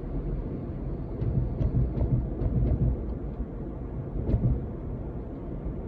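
Steady low road and engine rumble inside a moving car's cabin, with a few light clicks and knocks between about one and three seconds in and another just past four seconds.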